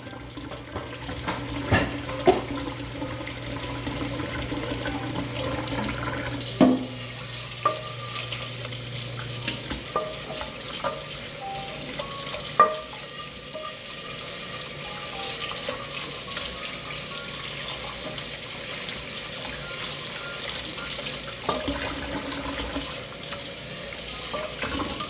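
Kitchen tap running steadily into a sink while dishes are washed, with a few sharp clinks and knocks of dishes, the loudest about 7 and 13 seconds in.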